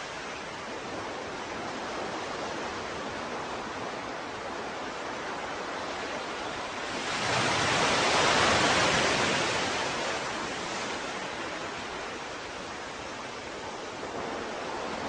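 Ocean waves washing steadily, with one larger wave building, breaking about halfway through and then fading back into the wash.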